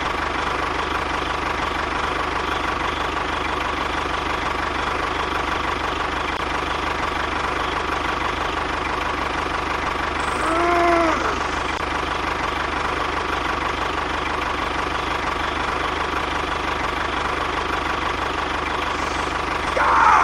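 An engine running steadily without change, with a short call that rises and falls in pitch about halfway through.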